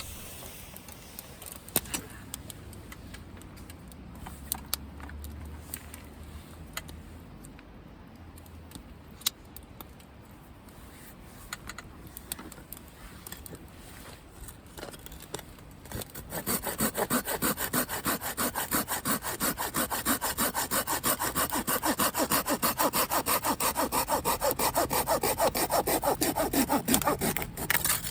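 Hand saw cutting firewood: after some light scattered clicks and knocks of wood being handled, fast, even back-and-forth sawing starts about halfway through and stops shortly before the end.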